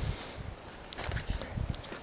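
Footsteps on gritty, loose ground: irregular soft thuds with short crunching crackles.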